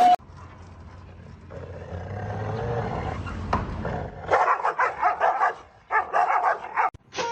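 A dog barking in two quick runs of short yaps, about four seconds in and again near the end.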